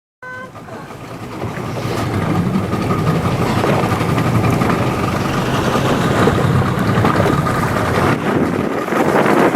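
Speedboat running under way, with wind on the microphone; it grows louder over the first two seconds, then holds steady.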